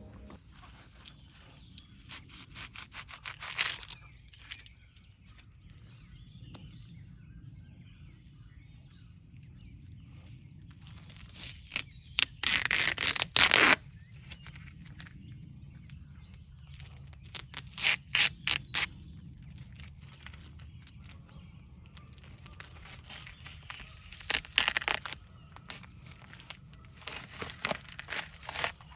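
Cured expanding spray foam being cut and torn away in several bouts of crunching and tearing, the loudest about twelve seconds in.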